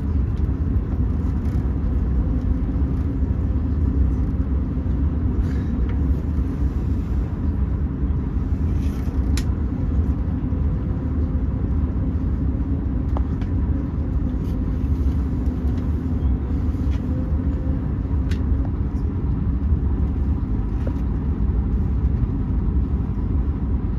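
Steady low rumble of a moving passenger train heard from inside the carriage, with a few faint clicks from the wheels and track.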